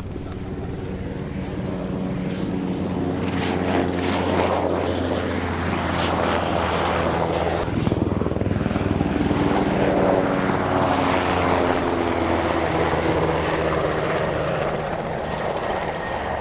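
Helicopter flying past with a steady engine and rotor sound. It grows louder over the first few seconds, and its pitch slides downward as it passes.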